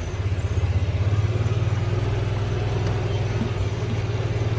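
Engine running steadily at low speed, a low rumble with a fast, even pulse.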